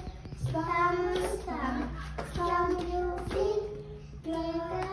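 Young children singing an English action song together in phrases of about a second each, with a few sharp hits between the phrases.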